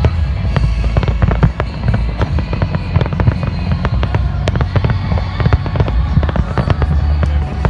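Fireworks going off in rapid succession: a dense run of sharp bangs and crackles over a continuous low rumble.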